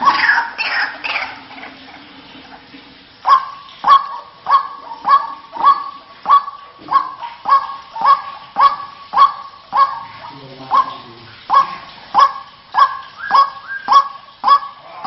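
White-breasted waterhen (ruak-ruak) calling. A loud jumble of overlapping calls fades away in the first two seconds. After about three seconds a steady run of sharp, quickly falling "kwak" notes follows, nearly two a second, as used to lure the bird.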